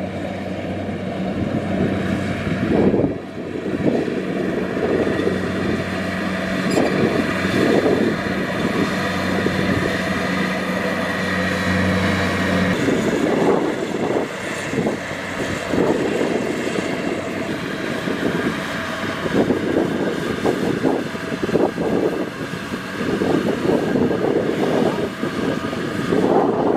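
Kubota DC-70 Plus rice combine harvester running with a steady diesel drone and uneven rushing surges over it. A steady low hum in the sound drops out about halfway through.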